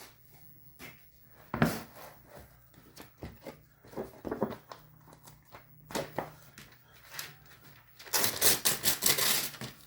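Objects handled on a workbench: scattered knocks and clicks, then about a second and a half of rapid scratchy rustling near the end.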